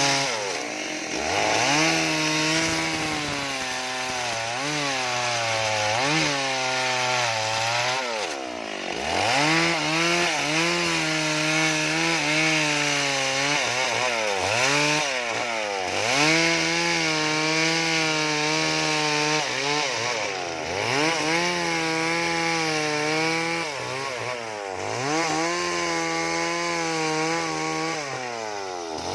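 Chainsaw cutting wood. The engine runs at high revs with its pitch wavering under the load of the cut, and it drops back and revs up again about every four to six seconds between cuts.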